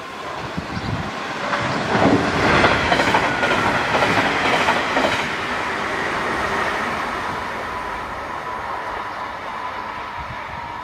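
DSB passenger train passing through at about 126 km/h, its wheels knocking rhythmically over the rail joints. It is loudest a couple of seconds in, then fades away as it recedes, leaving a steady high ringing tone.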